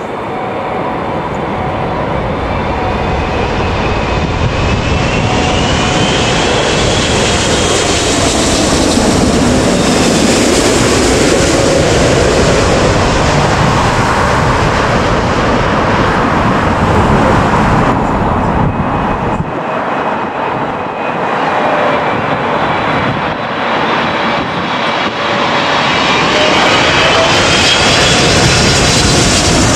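Jet airliner's engines passing low overhead on final approach to land: engine noise swells to a peak about ten seconds in, with a whine that shifts in pitch as it passes. After a brief dip around twenty seconds in, jet engine noise builds again near the end.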